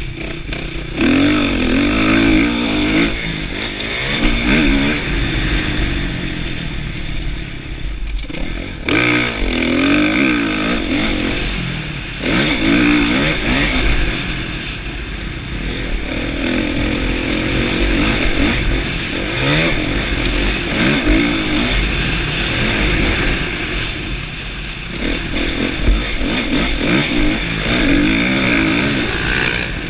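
2016 Kawasaki KX450F's 450 cc four-stroke single-cylinder engine being ridden hard, revving up and dropping back over and over as the throttle is opened and shut, with a few brief lulls. Heard from an onboard GoPro.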